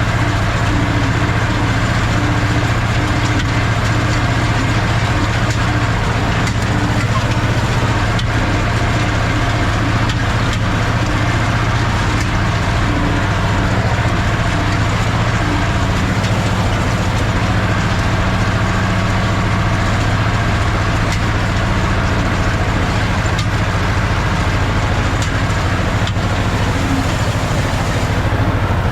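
Ursus C-330's two-cylinder diesel engine running steadily while the tractor pulls a hay rake.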